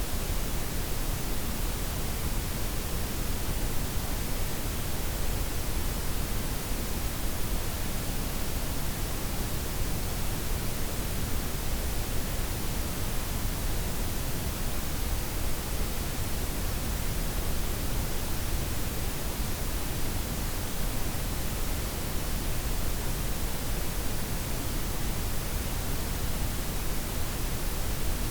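Steady blend of synthetic white, pink and brown noise: an even, unchanging hiss with a deep low rumble underneath.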